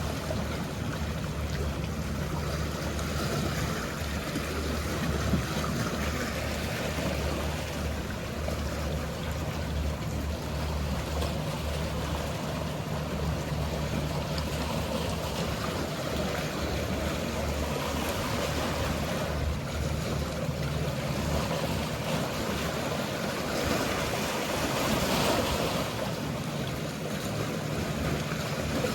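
Sea waves washing and surging steadily, over a constant low hum from a boat engine.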